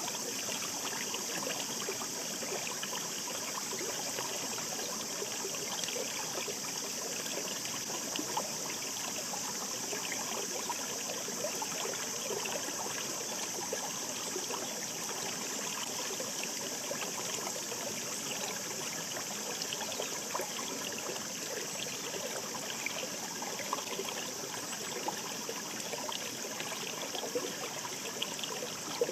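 Shallow mountain river babbling over stones, a steady rush of water with many small splashes and gurgles.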